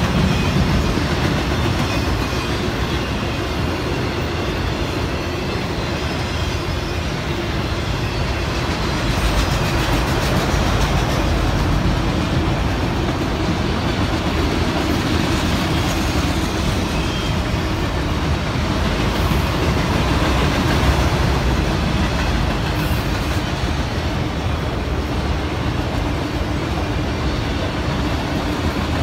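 Freight train of autorack cars rolling past close by: the steady, continuous noise of steel wheels running over the rails.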